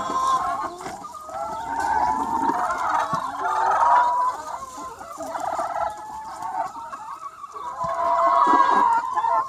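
A large free-range flock of hens clucking and calling over one another, the overlapping calls swelling and fading, loudest around four seconds in and again near the end.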